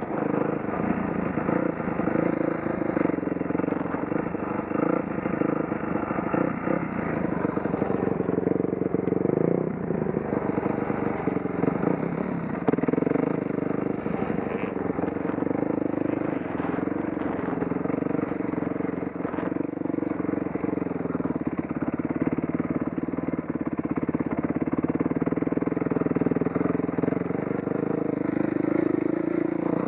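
Dirt bike engine running while riding, its revs rising and falling continuously as the throttle is worked.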